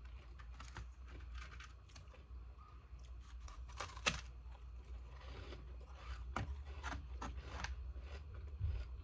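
Frozen ice pieces being bitten and crunched in the mouth: a run of irregular crackles and snaps, the loudest about four seconds in, over a steady low hum.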